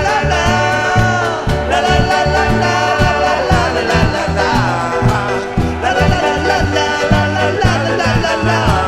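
Live band music with wordless sung vocals over a steady beat.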